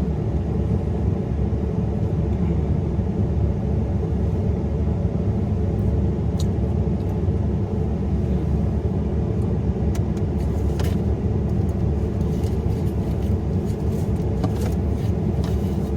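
Steady low rumble of a car engine idling, with a few faint light clicks in the second half.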